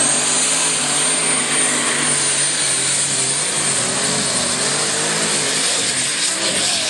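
Super stock pulling tractor's turbocharged engine running loud, with a very high, steady turbocharger whine held over the engine noise.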